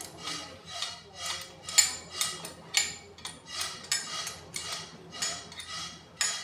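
Metal tools and water-pump parts clinking and tapping together, sharp irregular clinks about two a second.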